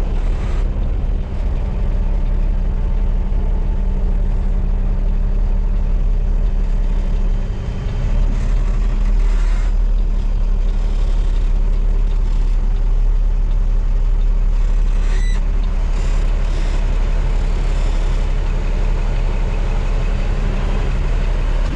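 Dump truck's diesel engine running steadily under load as the truck pulls away, a constant low drone.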